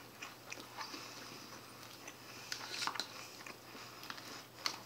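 A person quietly chewing salad, with a few short clicks of a metal fork against a plastic bowl.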